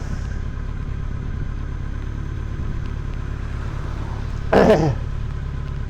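Motorcycle engine and road noise as a steady low rumble picked up by a helmet mic while riding. A short vocal sound from the rider comes about four and a half seconds in.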